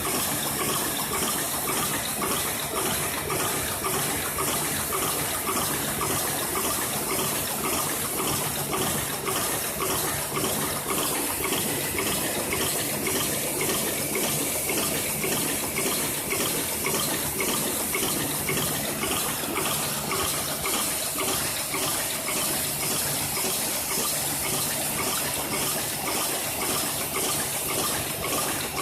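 An automated production machine running steadily, with a continuous hiss and a fast stream of fine mechanical ticking.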